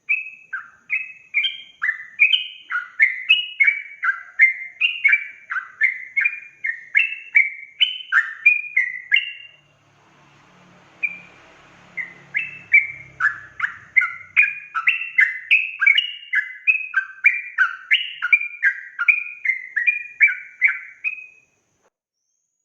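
Yellow-vented bulbul (trucukan) singing a rapid, unbroken string of bubbly chirped notes, about two a second. The song breaks off briefly about ten seconds in, resumes, and stops shortly before the end.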